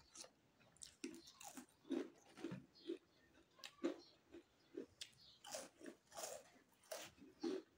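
Close-miked mouth chewing in a steady rhythm of about two chews a second. From about five seconds in come several sharp crunches as a crisp fried nimki strip is bitten and chewed.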